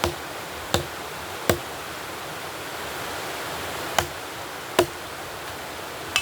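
Sharp chopping blows, six in all, mostly coming in pairs about three-quarters of a second apart, each with a short ring. They sound over a steady rushing noise.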